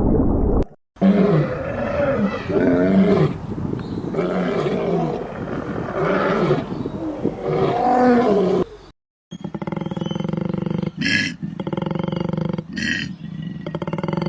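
Animal calls in separate spliced clips: a string of repeated rising-and-falling cries, then, after a brief break near the middle, a steadier low call with short shrill bursts.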